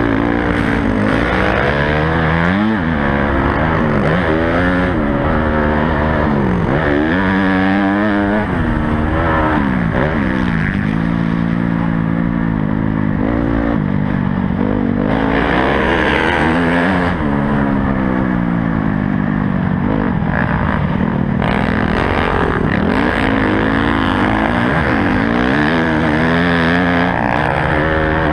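A Honda CRF250 motocross bike's single-cylinder four-stroke engine, revving up and falling back again and again as it accelerates, shifts and backs off, heard close up on the GoPro.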